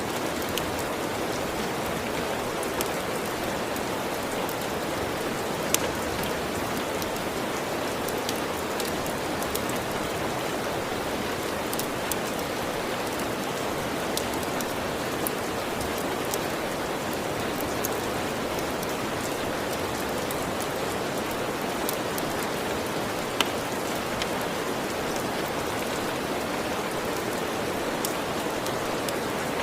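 Steady rain hiss, with scattered sharp clicks and two louder ones, about six seconds in and near the end.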